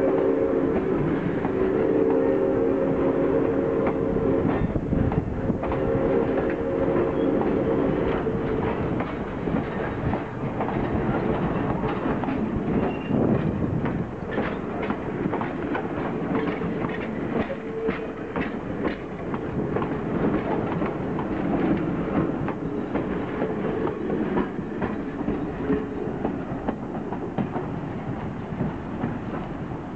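Vintage steam-train passenger coaches rolling past, their wheels clicking over rail joints. The rumble thins as the last coach moves away near the end. For about the first eight seconds the train's whistle sounds a steady chord.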